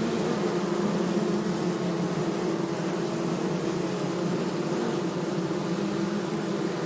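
Mass of honey bees buzzing, a steady droning hum.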